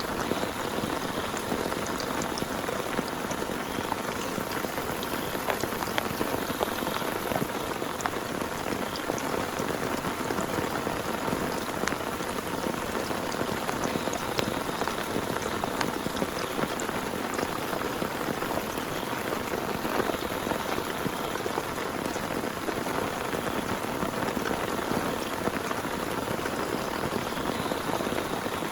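Heavy rain falling steadily on a tent, with scattered sharp hits of single drops.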